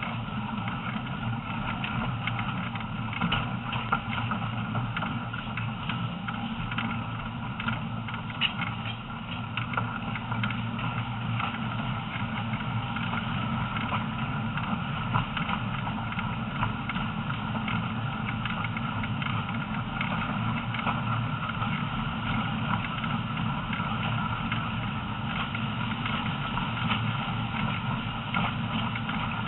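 Heritage train running along the track, heard from aboard: a steady rumble of wheels and running gear with a few scattered clicks and knocks.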